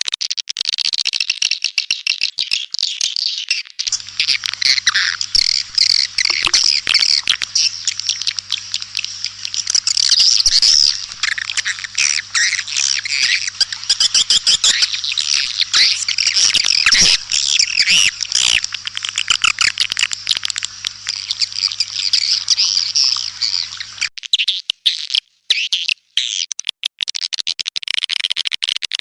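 Edible-nest swiftlets chattering in a dense, rapid twitter of high clicks and trills. This is a recorded swiftlet calling sound of the kind played to lure swiftlets into a nesting house. A steady low hum comes in about four seconds in and stops about twenty-four seconds in, after which the chatter thins to sparser clicks.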